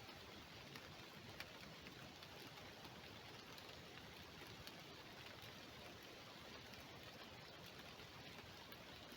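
Near silence: a faint, steady hiss with a few scattered light ticks.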